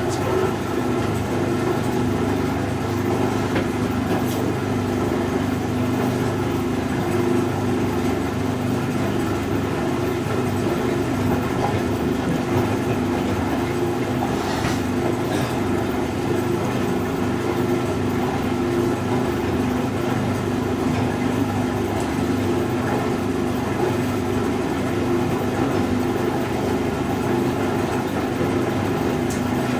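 1965 English Electric Liberator washing machine on its spin, the motor and drum running with a steady hum and rumble that holds level throughout.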